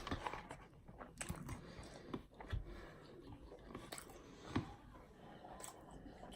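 Close-miked chewing and mouth sounds of a person eating fast food: faint wet smacks with scattered sharper clicks, the sharpest about four and a half seconds in.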